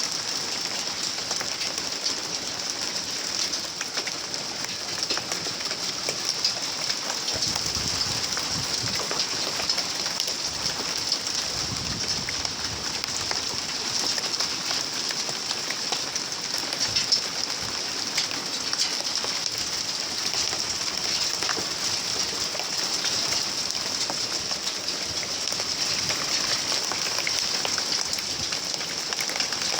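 Rain falling steadily, with many small drop hits.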